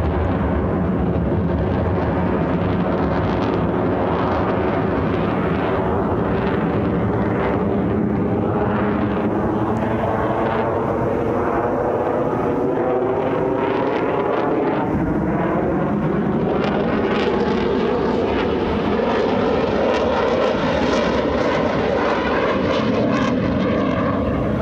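F-35 Lightning's single afterburning turbofan engine running loud and steady as the jet flies its display, with a slowly sweeping, phasing tone as it moves across the sky.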